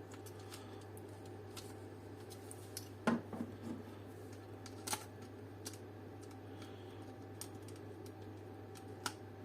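Small clicks and taps of plastic and metal dome-light parts being handled and fitted, a few scattered knocks with the strongest about three seconds in, over a steady low hum.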